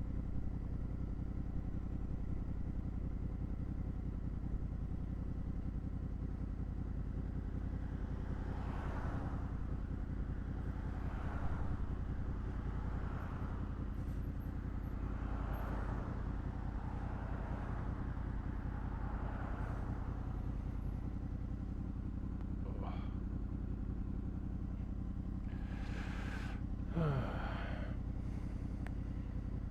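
Honda VFR800's V4 engine running at a steady cruise, with wind and road noise. Other vehicles pass several times, and one goes by with a falling pitch near the end.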